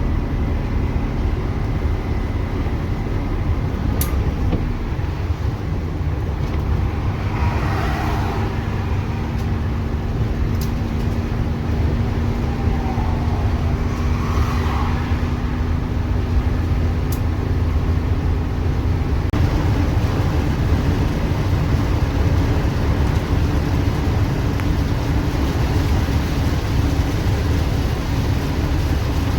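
A bus's freshly rebuilt diesel engine and its road noise at highway cruising speed on a break-in drive. A steady low drone carries a hum that steps up slightly in pitch about two-thirds of the way through, with a few faint ticks.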